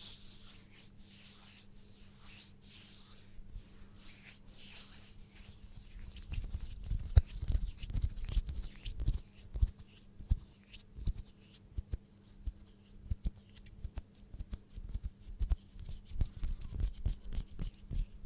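Hands rubbing together close to the microphone in slow swells, followed from about six seconds in by a dense run of quick crackling clicks and soft thumps from close-up finger and hand movements.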